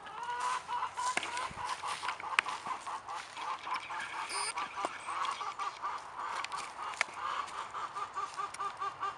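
Farm poultry calling in a fast, steady series of short, repeated calls, about four or five a second, with a few sharp clicks on top.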